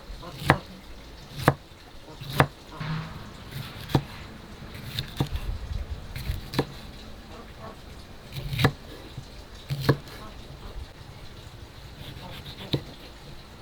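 Knife chopping on a wooden cutting board: single sharp chops, about one a second at first, then more spaced out.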